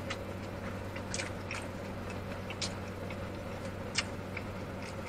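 Mouth chewing a burger, with several short wet smacks and clicks, the sharpest one near the end. Under it runs the steady hum of a car's air conditioning.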